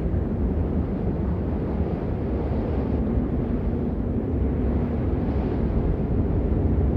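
Steady rain noise, muffled and deep, with most of its weight in a low rumble and little hiss.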